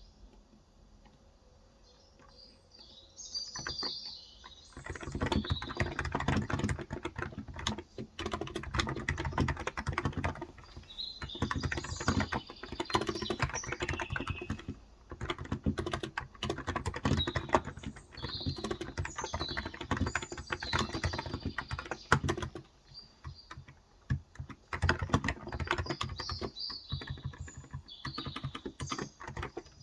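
Typing on a Cox Endeavor electro-capacitive (Topre-style) keyboard with 35 g switches: fast runs of key clicks that begin a few seconds in, pause briefly about two-thirds of the way through, then resume. Birds chirp high in the background.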